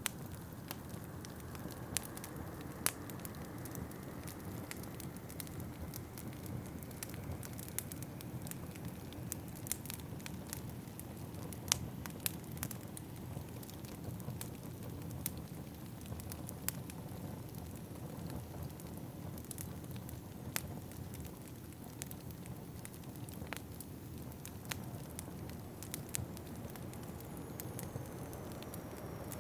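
Fireplace fire crackling, with irregular sharp pops and snaps over a steady low rush of wind. Near the end a faint high whistle glides downward.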